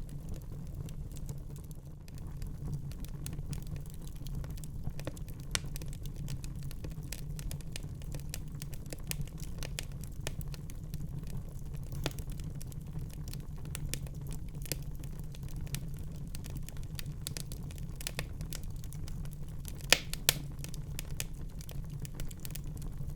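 Wood fire crackling in a fireplace: a steady low rumble with scattered small pops, and two sharper pops close together about twenty seconds in.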